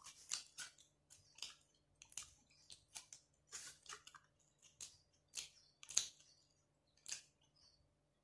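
Faint eating sounds of a person chewing with their mouth: irregular soft mouth clicks and smacks, one or two a second, with a louder smack about six seconds in.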